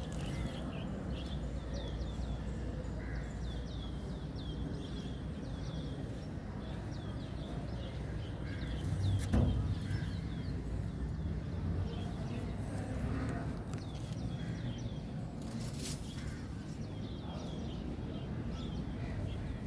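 Many small birds chirping in quick, short repeated calls over a steady low rumble.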